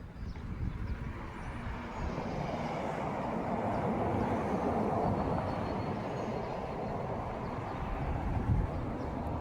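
Street traffic: a steady rush of vehicle noise that builds over the first few seconds and then holds, with a low rumble underneath.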